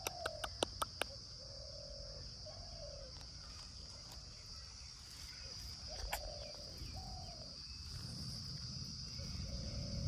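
Pet parrot making a series of short, soft, low chirping calls, with a quick run of sharp clicks in the first second and another click about six seconds in, over a steady high-pitched drone.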